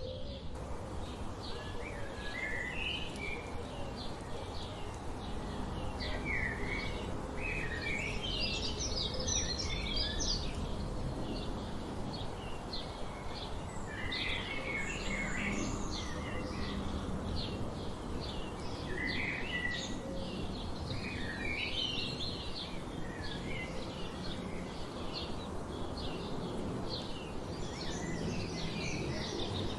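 Several wild songbirds singing and chirping together, short rapid chirps and warbled phrases over a steady low background rumble.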